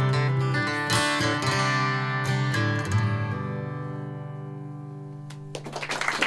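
Acoustic guitar strumming the closing chords of a song, the last chord ringing out and fading away. Applause breaks in suddenly near the end.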